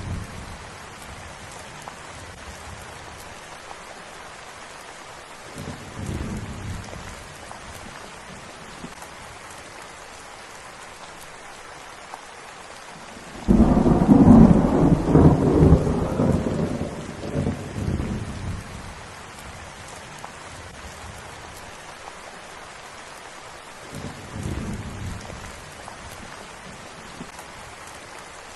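Steady rain with thunder. There are two faint rumbles, and about halfway through a loud peal breaks in suddenly and rumbles on for about four seconds before fading.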